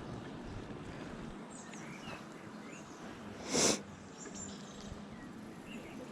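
Steady wind and riding noise from a moving bicycle, with small birds chirping faintly and a brief loud whoosh a little past halfway through.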